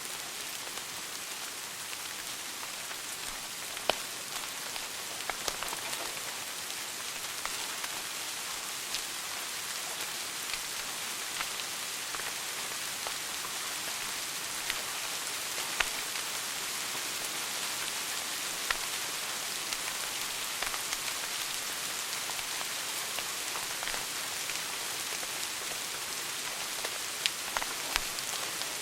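Wood fire in a fireplace burning with a steady hiss and frequent sharp crackles and pops, a few of them louder and scattered through.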